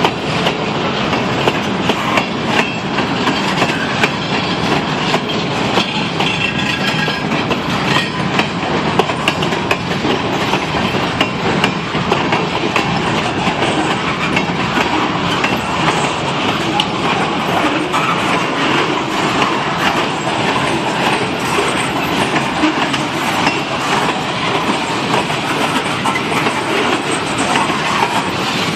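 Freight cars rolling slowly past on worn jointed rail: steady clatter, with the wheels clicking over the rail joints in a clickety-clack.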